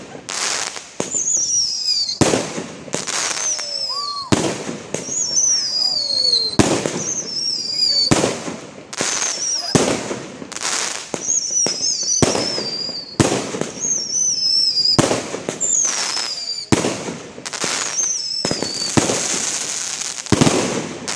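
Multi-shot firework battery firing shot after shot, about one a second. Each shot is a sharp bang, many followed by a high, falling whistle. Near the end a large burst gives a long crackling hiss.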